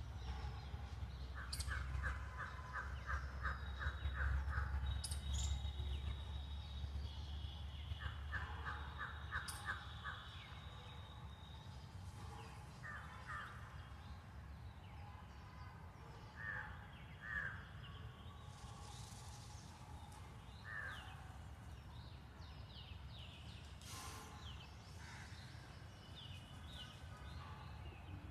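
Birds calling: two quick runs of about eight harsh repeated notes in the first ten seconds, then scattered short calls and chirps, over a low rumble that eases off after about ten seconds.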